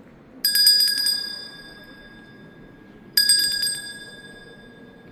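Small church hand bells rung twice, each time a quick shaken cluster of strikes whose high, clear tones ring on and fade.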